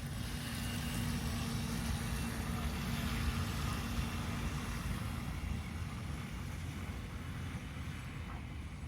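Wind buffeting the microphone, with a steady hum for about the first five seconds.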